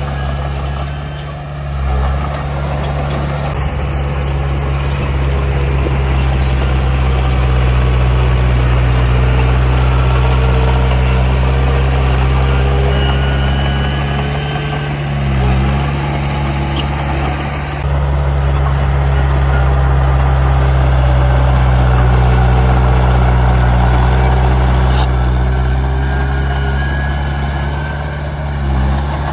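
Heavy diesel earthmoving machinery running steadily with a deep, even engine drone, briefly dipping three times.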